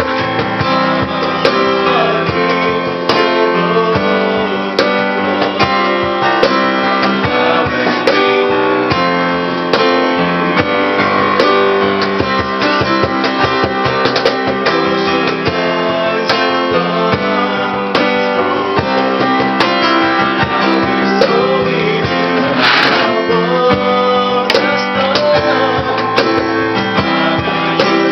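Live acoustic music: a strummed acoustic guitar with a cajón beating out the rhythm.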